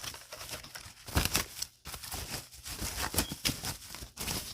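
Irregular rustling and light knocks of packaging being handled as items are unpacked from a box, in short uneven bursts.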